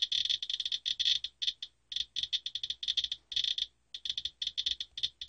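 Geiger counter clicking rapidly and irregularly in dense clusters with short gaps between them. The fast count rate comes from radioactivity on a used furnace filter, the highest readings this counter has given.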